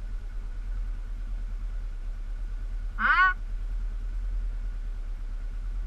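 ATV engine running low and steady, with one short, loud call that rises and falls in pitch about three seconds in.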